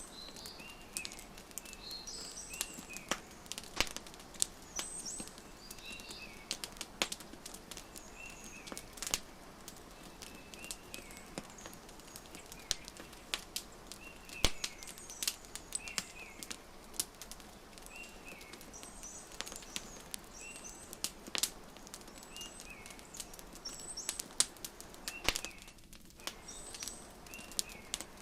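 Wood fire crackling with frequent sharp pops, layered with small birds chirping in short, repeated high calls.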